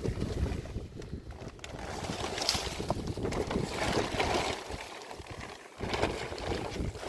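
Wind buffeting the microphone: a rough, gusting rumble with hiss above it that rises and falls, easing briefly about five seconds in.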